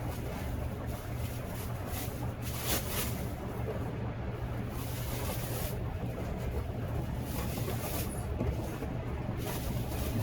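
A steady low mechanical hum, like a running engine, under even outdoor background noise.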